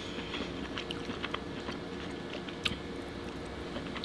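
Close-miked chewing: soft, wet mouth clicks and smacks, scattered and irregular.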